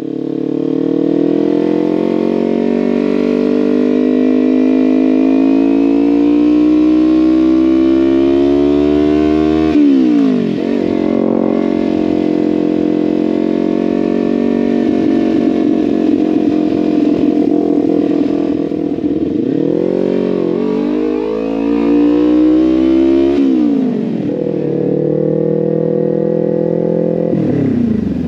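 Motorcycle engine pulling under load while riding, its note slowly climbing and then falling sharply at gear changes about ten seconds in and again near the end, with a brief dip and recovery in between.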